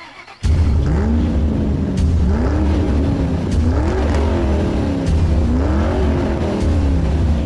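A car engine revved again and again over a steady low rumble, its pitch jumping up and falling back about every second and a half. It starts about half a second in.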